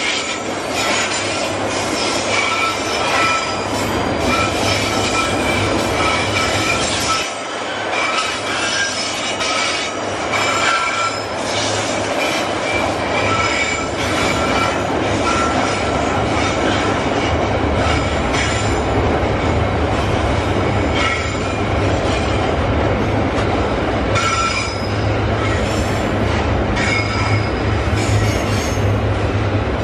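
Loaded freight wagons rolling past in a long train, with a steady rolling rumble and repeated high squeals from the wheels on the rails. The rumble grows deeper and stronger in the second half.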